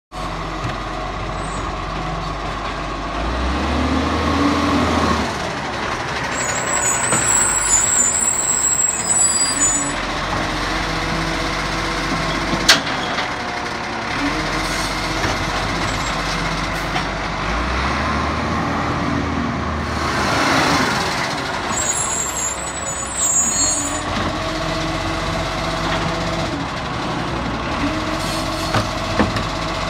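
Recycling garbage truck running steadily. Its engine note swells twice, high hissing comes in twice, and there is a sharp click about halfway.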